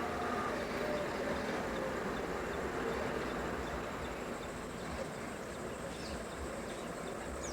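Steady running noise of a motor vehicle. Faint, regular high chirps of insects sound over it, and a thin, steady high insect whine joins about five seconds in.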